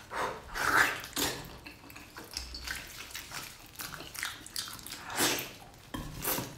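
Close-miked wet eating sounds of braised pork trotter being chewed and pulled apart: sticky chewing and lip-smacking in irregular short bursts, loudest a little under a second in and again about five seconds in.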